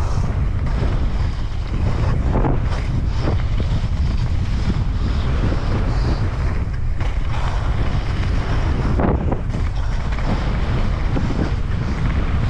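Strong wind buffeting a camera microphone, a steady loud rumble with brief louder gusts, on a gale-blown mountain bike trail.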